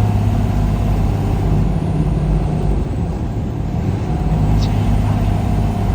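A truck driving at a steady pace: a low engine hum over road and tyre noise. The engine note eases slightly in the middle and comes back near the end.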